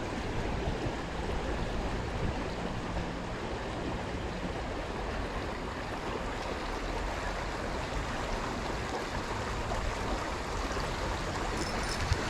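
Steady rushing of stream water flowing along the river, with a single short click near the end.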